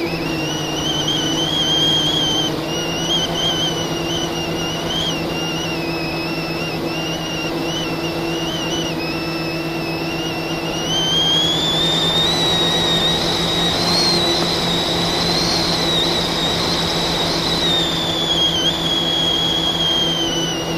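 FPV drone's brushless motors whining steadily under a constant low hum. The pitch climbs about halfway through as the throttle goes up, holds, then drops back near the end.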